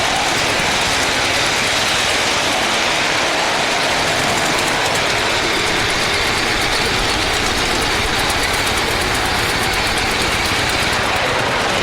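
Miniature railway train running along the track, a steady, unbroken running noise.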